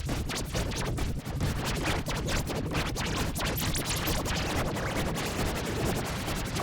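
Cartoon song audio mangled by heavy video-editing effects into a dense, harsh noise with rapid stuttering crackles, with no clear singing.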